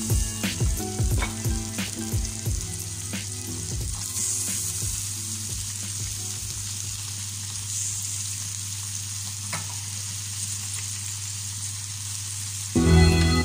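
Chicken pieces and onions sizzling in a stainless steel pot, with sharp knocks in the first few seconds as the pieces are pressed into place. Background music drops out about four seconds in and returns near the end.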